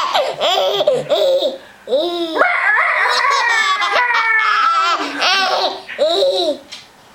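Baby laughing in repeated bouts of belly laughs and squeals, with one long high falling squeal from about two and a half to five seconds in; the laughter fades out near the end.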